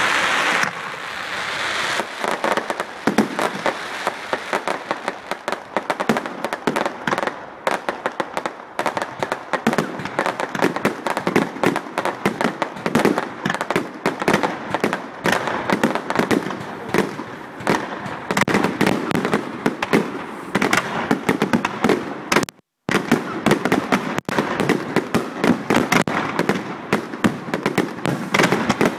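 Fireworks display: a dense, continuous barrage of rapid bangs and crackling, which cuts out completely for a moment about three quarters of the way through.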